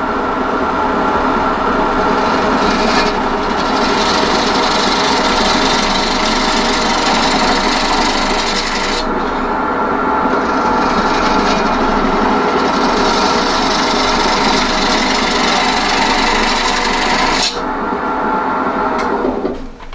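Wood lathe running with a turning tool cutting the spinning wood blank: a steady rasping scrape over the motor's hum. It eases off near the end as the cut stops.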